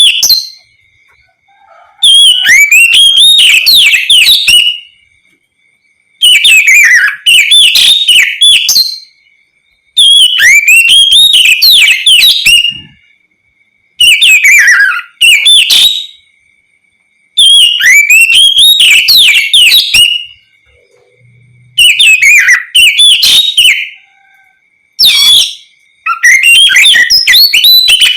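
Oriental magpie-robin (kacer) singing loudly. It gives repeated phrases of quick, rising and falling whistled notes, each two to three seconds long, with short pauses between them.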